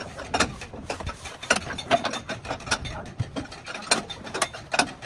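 Irregular sharp clicks and knocks from hand-tool work on a car body, two or three a second, some louder than others.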